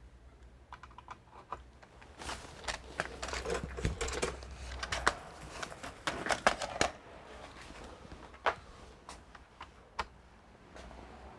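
Keys pressed on a computer keyboard in quick runs of clicks, densest in the middle and sparser toward the end, over a faint low hum.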